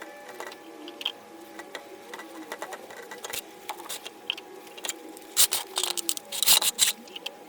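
A run of irregular light clicks and taps, with a cluster of louder knocks from about five and a half to seven seconds in.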